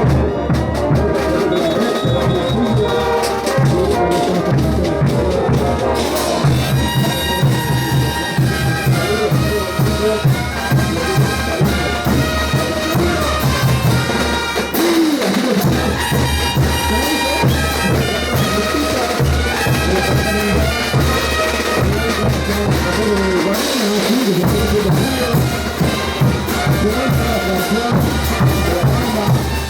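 Bolivian brass band playing Ch'uta dance music: trumpets and trombones carrying the melody over a steady beat of drums.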